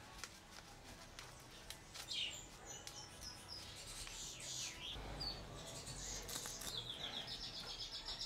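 Faint birdsong: scattered high chirps and whistles, then a quick run of short repeated notes near the end, with soft rustling and tapping as a paper spice packet is handled.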